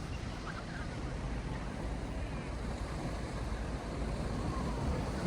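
Steady sea surf and wind, the wind rumbling on the microphone.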